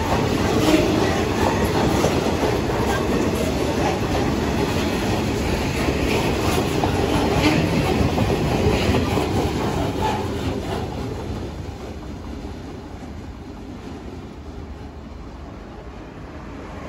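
Freight train of EWS bogie hopper wagons rolling past, the wheels clicking rhythmically over the rail joints. About ten seconds in, the sound starts to fade as the last wagons draw away.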